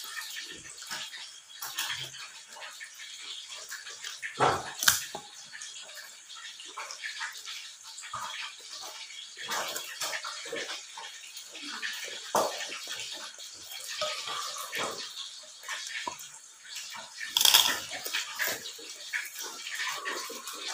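Close-up eating sounds: wet chewing and lip-smacking with many short irregular clicks, and two louder bursts about four and a half seconds in and near the end.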